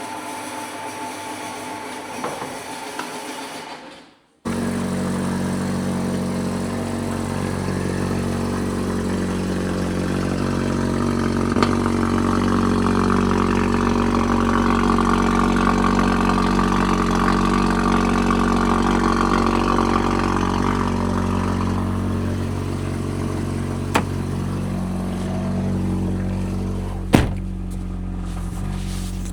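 A car driving, heard from inside the cabin: the engine runs steadily with road noise, swelling a little towards the middle and easing later. A few single sharp knocks sound near the middle and towards the end.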